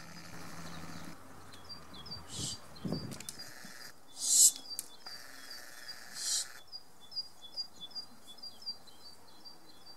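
A small bird chirping over and over, short high falling notes about two a second. Two short hissing bursts stand out, the louder about four seconds in and a second one about two seconds later.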